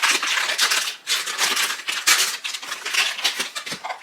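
Makeup compacts and containers clicking and clattering against each other, with the rustle of a makeup bag, as items are rummaged through and sorted by hand.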